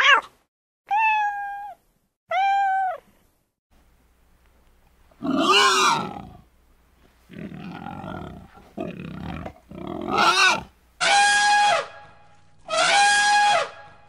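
A domestic cat meowing twice, then pigs grunting with a loud squeal among them, then an elephant trumpeting twice, each blast held about a second at a steady pitch.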